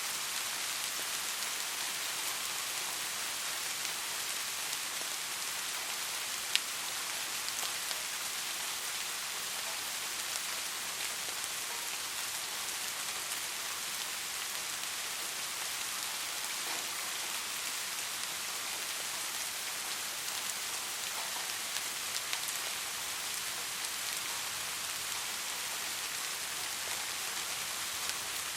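Soft, steady rain falling, an even hiss of many drops on a surface, with one sharper drop tick about a quarter of the way in.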